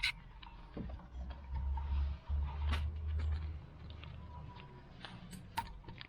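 Light clicks and taps from hands working on the fuel filter cap while swapping its seal, with a low rumble through the middle.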